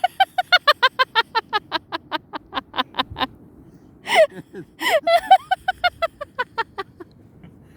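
A woman laughing hard in quick, rhythmic 'ha-ha' bursts, about seven a second: a long run of about three seconds, a couple of gasping breaths, then a second shorter run.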